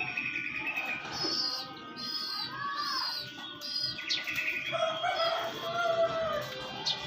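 Birds chirping in short, high, repeated notes, several calls overlapping, over background music with held tones.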